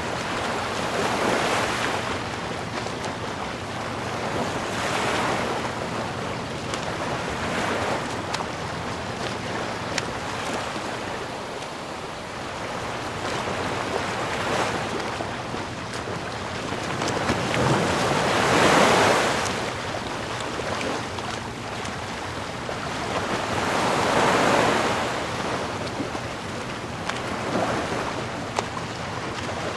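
Sea waves washing ashore in a continuous surf, swelling and falling back every few seconds, with the biggest swells about two-thirds of the way through.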